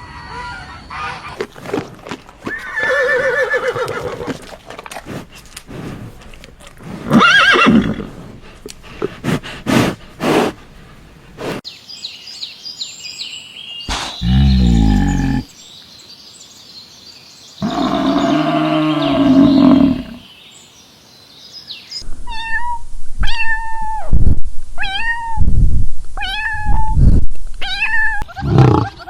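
Different animals calling in turn, in several short clips one after another; near the end, a run of about seven short, repeated calls.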